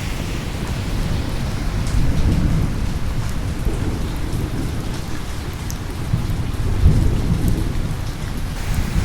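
Steady rain falling, with scattered drop ticks and low rolling thunder that swells twice.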